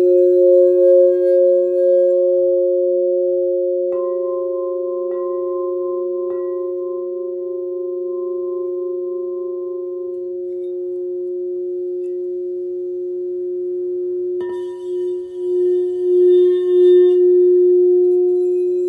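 Several singing bowls ringing together in long, steady tones that throb slowly as they beat against each other. A bowl is struck about four seconds in and twice more soon after, adding a higher ring, and another strike comes near fifteen seconds.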